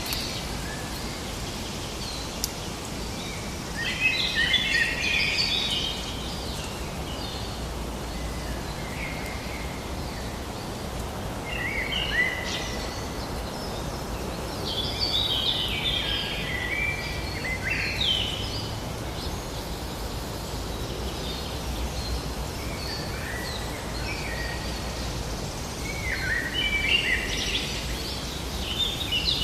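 Forest ambience with songbirds singing in bursts of quick warbling phrases, loudest a few seconds in, through the middle and near the end, over a steady low background rumble.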